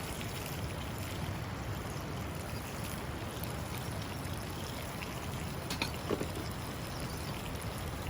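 Steady rushing of a flowing river or stream, with a couple of faint clicks about six seconds in.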